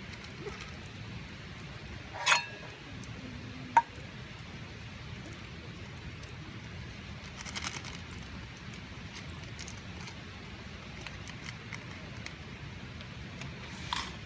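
Wood campfire burning, with a few sharp pops and crackles over a steady low background.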